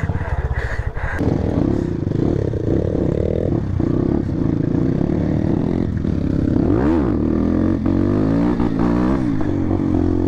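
Motorcycle engine running steadily, with a quick rise and fall in pitch about seven seconds in and some clatter.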